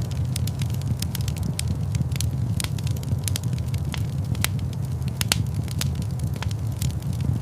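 Wood fire crackling in a stone fireplace: many sharp, irregular pops over a steady low rumble.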